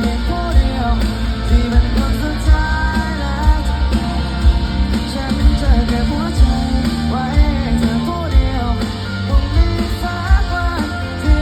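Live rock band performing a song: singing over guitars with a steady drum beat.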